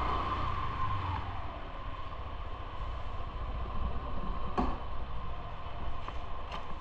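Motorbike on the move: a steady engine whine that drops away about a second in as it slows, leaving a low rumble, with a couple of sharp clicks in the second half.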